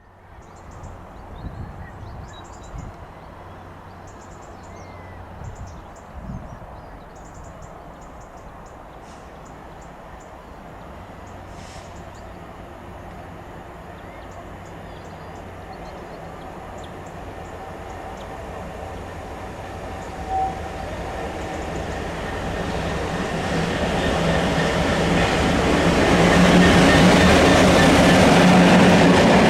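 A Class 66 diesel locomotive hauling a freight train of empty hoppers approaches, its two-stroke diesel engine and wheels growing steadily louder until it is at its loudest near the end. Faint bird chirps are heard in the first half, and there is a short high note about twenty seconds in.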